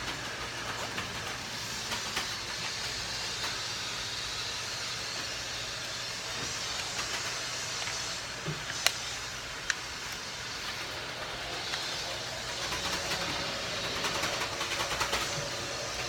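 A sheet of paper being handled and folded, rustling over a steady hiss, with two sharp clicks a little under halfway through and busier crinkling about three quarters of the way through.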